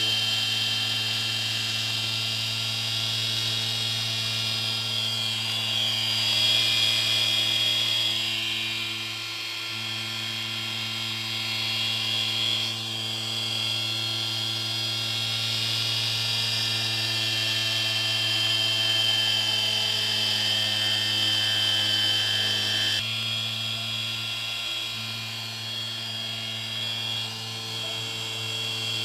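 Stepper motor of a CNC fourth-axis rotary table turning under a digital dividing controller: a steady electric whine over a low hum, its high tone gliding up and down at times as the speed changes.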